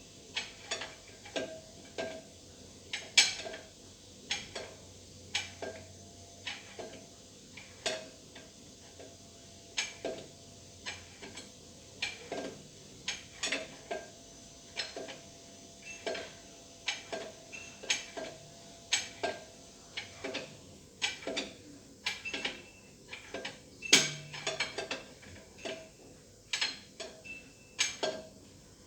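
Irregular metallic clinks and clicks, roughly one or two a second, with a louder clank about three seconds in and another near the end, like metal tools or parts being handled.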